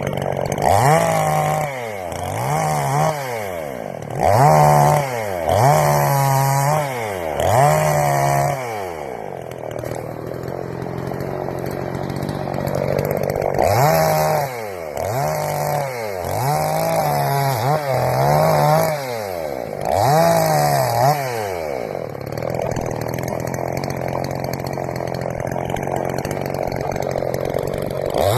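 Two-stroke gasoline chainsaw running and revving repeatedly, its engine note climbing to full speed, holding briefly and dropping back, over and over; it runs more evenly for a few seconds near the middle and again near the end.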